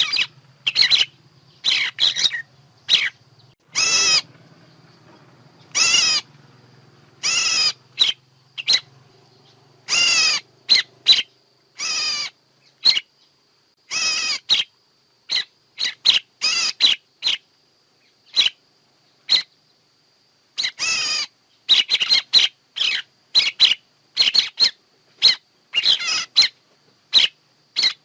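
Recorded bird calls used as a trapping lure: rapid short chirps mixed with harsher, longer calls of about half a second, repeating irregularly, over a faint steady high whine.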